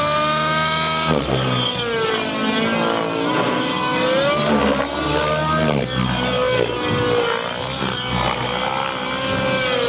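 Radio-controlled 3D helicopter whining in flight, its pitch climbing at first and then wavering up and down as it throws aerobatic manoeuvres.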